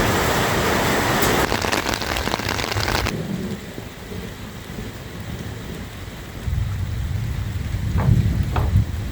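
Heavy rain pouring down, cut off suddenly about three seconds in. A low rumble of thunder follows and swells near the end, with two sharp cracks.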